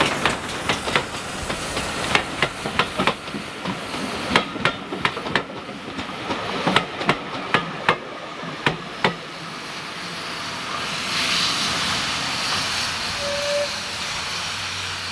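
A train passing on a heritage line, its wheels knocking over the rail joints in irregular clusters for the first nine seconds or so. After that a steady hiss, typical of a steam locomotive, takes over.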